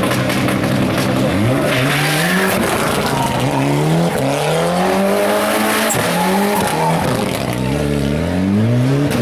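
Hill-climb race car accelerating hard up through the gears, its engine pitch climbing and dropping back at each shift, about four times.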